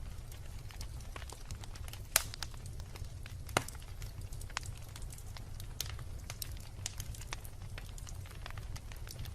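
Wood bonfire crackling: a steady stream of sharp snaps and pops over a low rumble of flame, with two louder pops about two seconds and three and a half seconds in.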